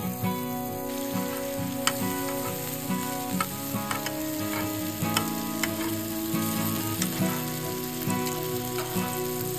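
Slices of marinated cow breast and enoki mushrooms sizzling in hot oil on a grill pan, with a few sharp clicks of metal tongs against the pan.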